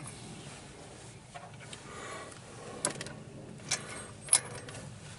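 Steel flat washers and puller parts clinking together as they are handled and fitted onto the bolt of a homemade injector puller: three sharp metal clicks in the second half.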